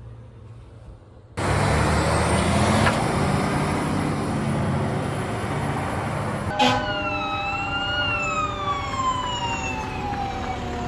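Responding Pierce Velocity fire truck: heavy engine and road noise starting suddenly about a second in, then a siren wail that rises and then slowly falls.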